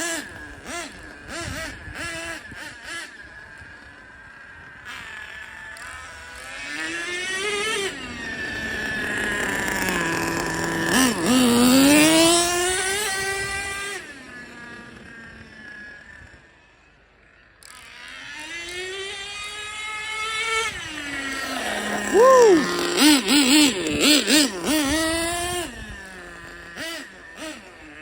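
Nitro RC truck's small two-stroke glow engine (a modified TRX 2.5) running at high revs, rising and falling in pitch as the car passes by and drives away. It fades to faint about two-thirds of the way in, then comes back with a run of sharp throttle blips.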